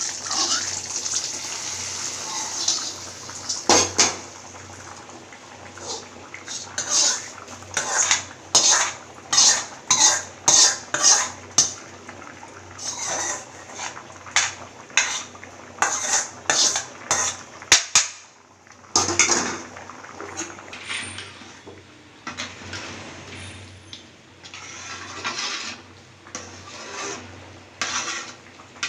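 A metal utensil knocking and scraping against a cooking pot in a run of irregular strokes, about one or two a second, as the gravy is stirred.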